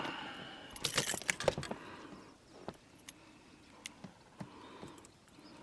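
Light metallic rattling and clicking from fishing tackle being handled, most likely the lure and hooks while a small pike is unhooked. A burst of rattles comes about a second in, then a few faint scattered clicks.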